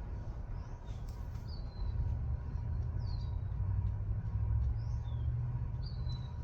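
A bird chirping: short, high notes that fall in pitch, repeated about every second and a half, over a steady low rumble.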